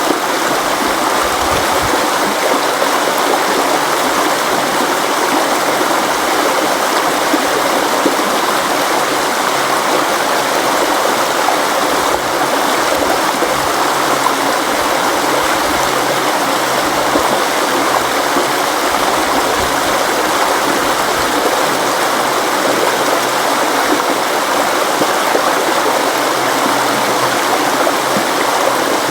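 River water flowing and rushing steadily over rocks, an even, unbroken sound.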